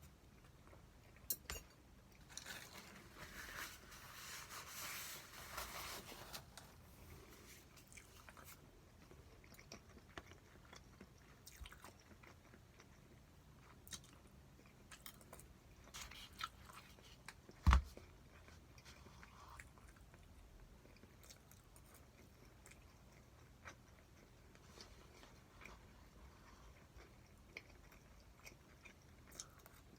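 A person eating: biting and chewing food, with small clicks of utensils. A dense stretch of crunching or rustling runs in the first few seconds, and a single sharp knock comes about 18 seconds in, the loudest sound.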